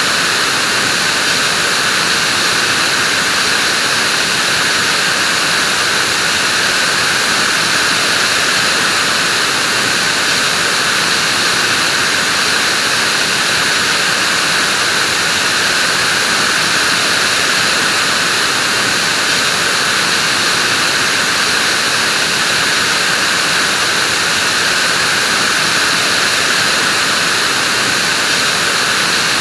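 Vacuum cleaner running steadily at full power, a loud, even hiss with a band of whine around the middle-high pitches.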